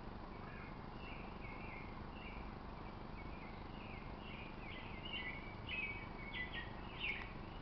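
A small bird singing a long run of short, varied chirping notes that grows louder toward the end, over a steady outdoor background hiss.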